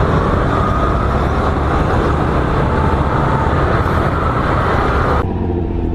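Motorcycle engine running amid steady road traffic noise, with a loud hiss that cuts off abruptly about five seconds in.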